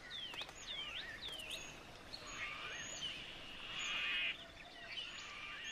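Wild birds calling: a quick series of sharp, falling whistled notes, about two a second, then a rapid buzzy trill that comes and goes.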